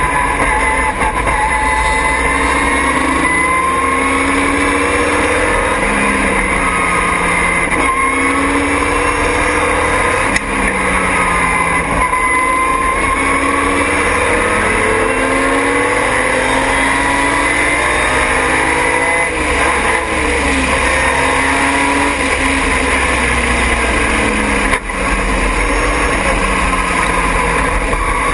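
Triumph TR6's straight-six racing engine at full race pace, its pitch repeatedly climbing under acceleration and dropping back at gear changes and braking for corners.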